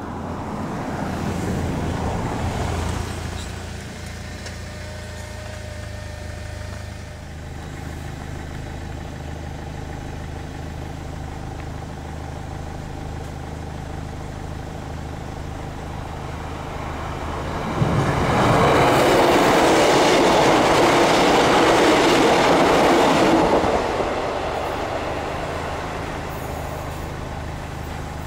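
A Northern Class 156 diesel multiple unit passes over the level crossing, loud for about six seconds from about two-thirds of the way through, then fading. A steady low engine hum runs under it before and after.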